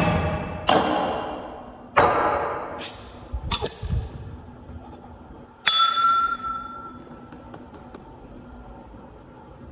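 Kitchenware being knocked and set down: several sharp knocks that each fade slowly. Then one ringing clink, like a struck bowl or glass, rings clearly for over a second, and a few faint ticks follow.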